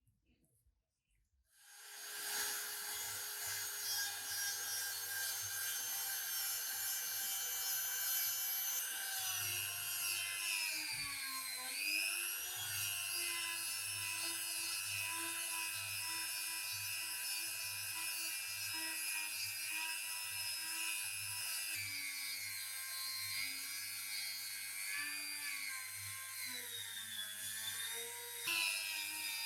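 A small high-speed power tool motor starts about two seconds in and runs with a steady high whine, its pitch sagging and recovering around ten to twelve seconds in and shifting again later, as it comes under load.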